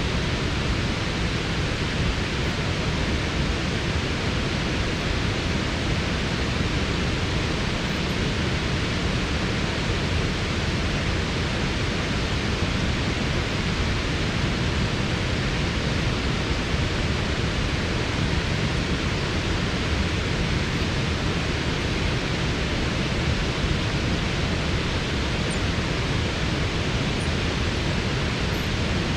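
Waterfall's rushing water: a steady, unbroken rush.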